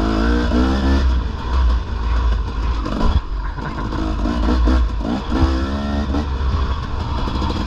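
Dirt bike engine revving up and down, its pitch rising and falling several times over a constant low rumble, heard from on the moving bike.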